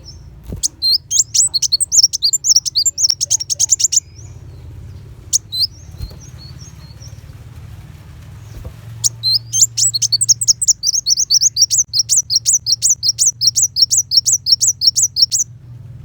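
Kolibri wulung sunbird singing in rapid-fire 'tembakan' volleys of sharp, high, quickly repeated notes. It sings two long bouts with a pause and a few scattered notes between them, over a faint low steady hum.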